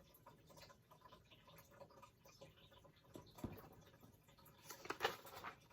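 Near silence: room tone with a few faint small clicks, a soft thud a little past the middle and a brief faint rustle near the end.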